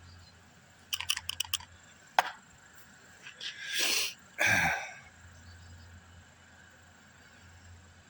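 A few quick clicks and a sharp tap from handling, then two breathy rushes of air, one after the other, as breath is blown and drawn through the plastic vent valve.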